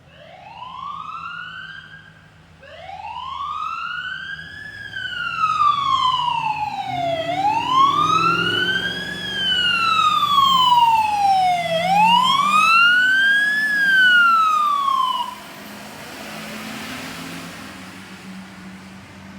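Fire apparatus siren on wail, sweeping slowly up and down with each rise or fall taking about two to two and a half seconds, over a truck engine running steadily. A short first rise cuts off after about two seconds before the wail restarts, and the siren stops abruptly about three-quarters of the way through, leaving the engine.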